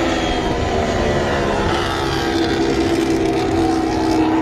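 MotoGP racing motorcycle engine running at high revs, its pitch holding nearly steady with a slight slow fall.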